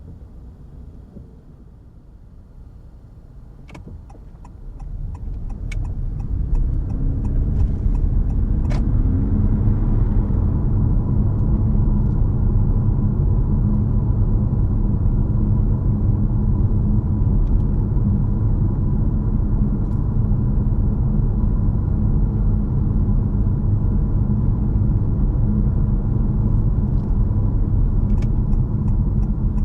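Honda HR-V e:HEV hybrid driving, heard from inside the cabin: fairly quiet at first, then about five seconds in the drive noise swells into a loud, steady low rumble with a short rising whine as the car picks up speed. Light regular ticking sounds for a few seconds near the start and again near the end.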